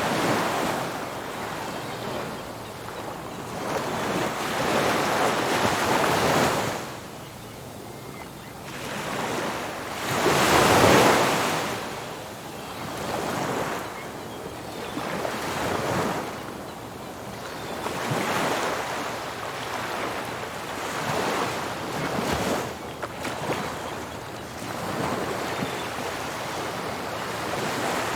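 Ocean surf: waves breaking on a beach and washing back, swelling and fading every few seconds, the biggest about ten seconds in.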